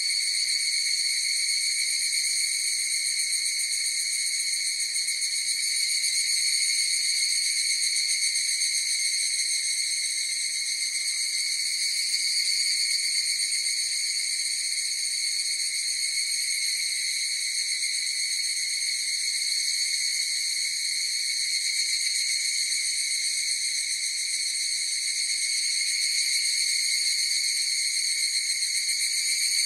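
A chorus of higurashi (evening cicadas) calling: a steady, high-pitched ringing that never breaks.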